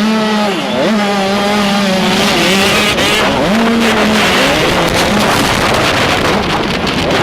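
Several 85cc two-stroke motocross bike engines revving together: one holds a steady pitch while others rise and fall as the throttles are worked.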